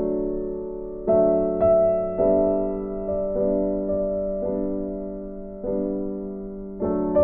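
Background music: slow, gentle piano (electric-piano tone), notes or chords struck about once a second and left to fade.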